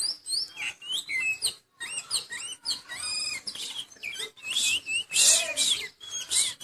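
Oriental magpie-robin (kacer) in moult singing vigorously: a varied run of clear whistled notes that slide up and down, mixed with quick chirps and short trills, broken by brief pauses.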